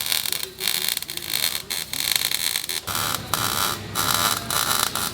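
Welding on an exhaust system: an irregular crackling, buzzing noise, with a change in its tone a little before three seconds in.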